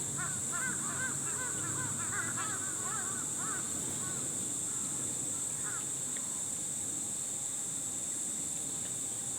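A flock of birds calling, many short overlapping calls for about four seconds, then thinning out to a few calls. Steady insect chirring runs underneath.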